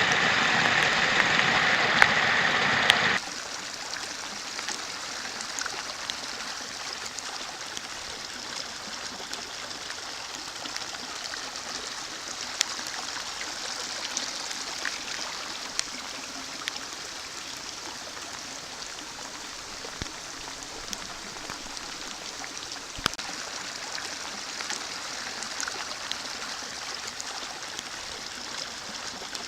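Creek running high after heavy rain, a steady rush of water. It is loud for the first three seconds, then drops abruptly to a quieter, even rush with scattered small ticks and splashes.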